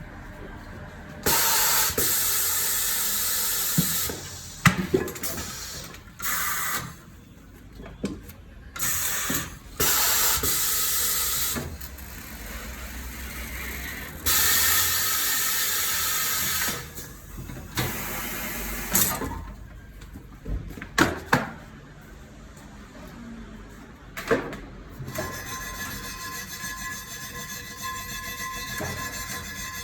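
Pneumatic tools at work on a tyre change: repeated bursts of compressed-air hiss, each one to three seconds long, with metal clicks and clanks between them. For the last few seconds a steadier, quieter hum with a faint whine takes over.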